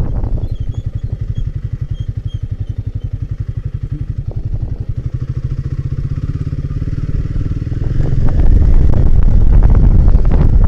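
Royal Enfield Himalayan 450's single-cylinder engine running at low revs with an even pulsing beat, then getting much louder about eight seconds in as it is opened up, with clattering knocks over the rough trail.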